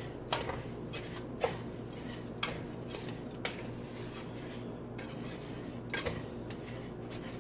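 A spoon stirring raw rice as it toasts in oil in a pan, clinking and scraping against the pan in scattered strikes about once a second. The rice is being browned to golden before the water goes in.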